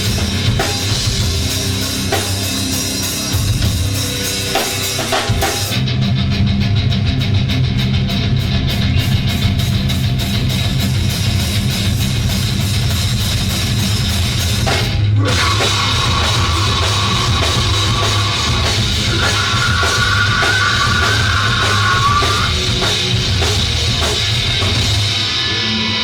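Live rock band playing loud, with drum kit, cymbals and electric guitar. About fifteen seconds in the music breaks briefly, then a held guitar melody rises over the band.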